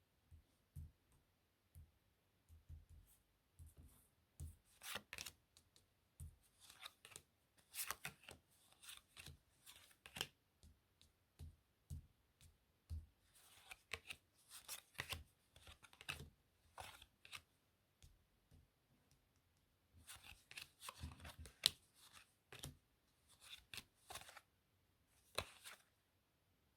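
Playing cards handled close to the microphone: a string of short crisp snaps, flicks and rustles with brief pauses between them, and a quiet gap of about two seconds about two-thirds of the way through.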